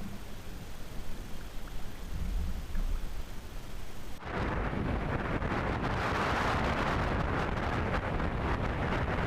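Low wind rumble on the microphone, then after an abrupt cut about four seconds in, a steady rushing noise.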